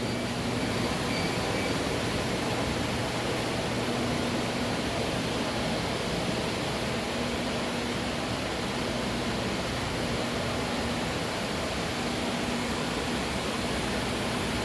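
Steady rushing air noise, like a large fan blowing, with a faint low hum that comes and goes.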